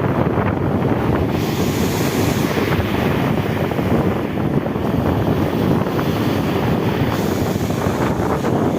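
Sea wind buffeting the microphone over the sound of surf on the beach, the wash swelling about a second and a half in and again near the end.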